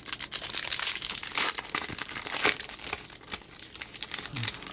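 A trading card pack's wrapper being torn open and crinkled by hand, a dense run of crackling that is loudest in the first half.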